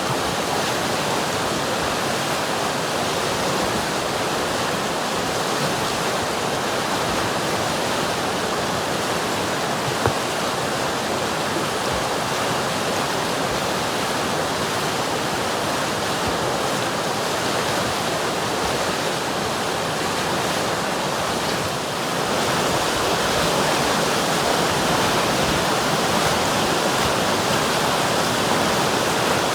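River water rushing steadily, a dense even noise, with one brief tick about a third of the way in and a slight rise in loudness about three-quarters of the way through.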